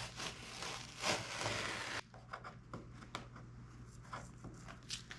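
Tape being peeled off a foam model-airplane wing, rustling and rubbing for about two seconds with a louder swell about a second in. After a sudden drop it gives way to scattered light clicks of handling.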